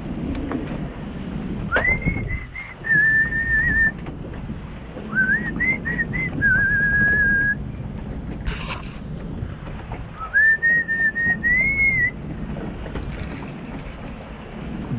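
A man whistling a tune in three short phrases of held and stepping notes, over a steady low rumble. A brief hiss a little past the middle.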